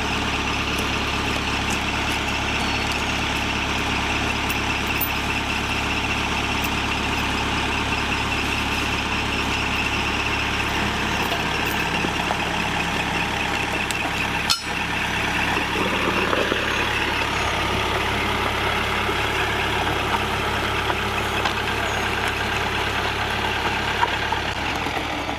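Tractor engine running steadily at a constant speed, with a single sharp knock a little past halfway through.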